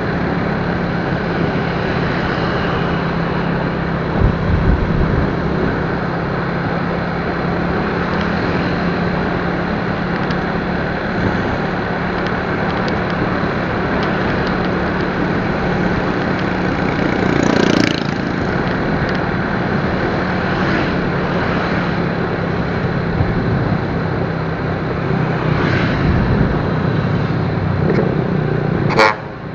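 A motorcycle on the move: wind and road noise rushing over the microphone above a steady engine hum. There is a brief sharp noise about two-thirds of the way through and another near the end.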